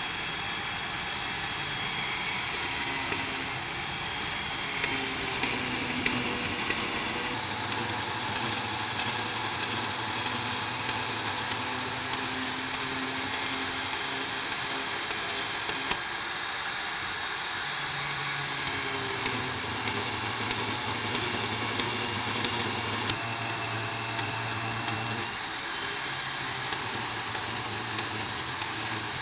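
Knifemaking shop machinery running steadily with a rushing hiss, its low motor hum shifting pitch a few times, with small sharp ticks here and there.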